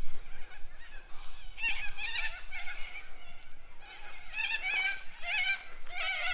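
Waterfowl calling repeatedly: a run of short, wavering honking calls, several in quick succession, coming in clusters about a second apart.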